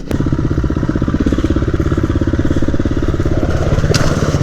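Dirt bike engine running steadily, its firing pulses coming fast and even, with a brief click about four seconds in.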